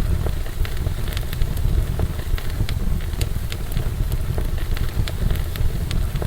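Wood fire burning in a fireplace, with a steady low rumble of flame and irregular sharp crackles and pops from the burning logs.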